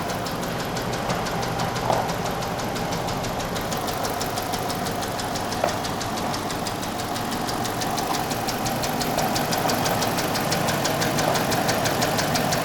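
2013 Dodge Charger patrol car's engine running with a fast, regular ticking knock, from a car sold as having engine issues. It grows a little louder in the second half, with a couple of brief clicks.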